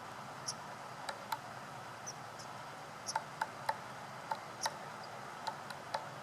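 Woodpecker pecking at wood: sharp, irregularly spaced single taps, with a quick run of three about three seconds in. Short high chirps are scattered between them.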